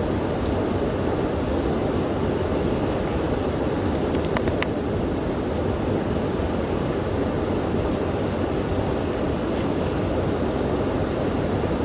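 Steady rushing of a waterfall, a constant low-pitched noise that doesn't change.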